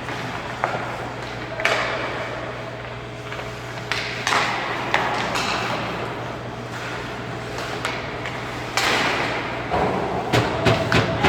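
Ice hockey play echoing in an arena: skate blades scraping the ice in several hissy sweeps, with sharp clacks and knocks of sticks and puck, coming thicker near the end, over a steady rink hum.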